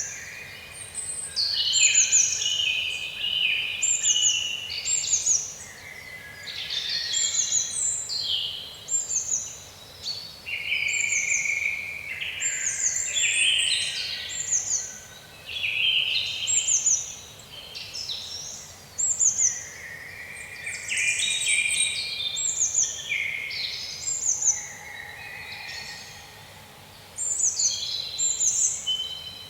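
Woodland songbirds singing, several at once, in overlapping phrases of high chirps and quick downward-sweeping notes, with brief lulls between bursts.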